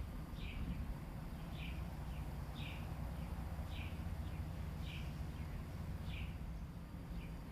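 A bird calling outdoors, repeating a short high note about once a second with fainter short notes in between, over a steady low rumble.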